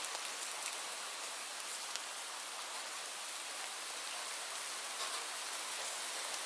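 Steady rain falling, an even hiss with a few faint individual drops ticking.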